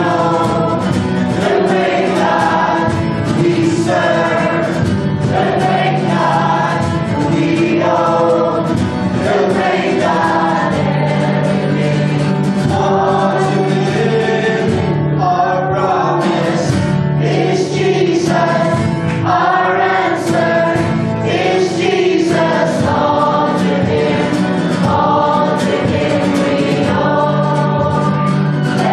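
Congregational gospel worship singing: a choir of voices singing with instrumental accompaniment and a steady bass line.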